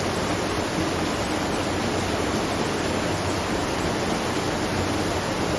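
Water rushing steadily at a watermill, an even, continuous rush with no beat or clicks.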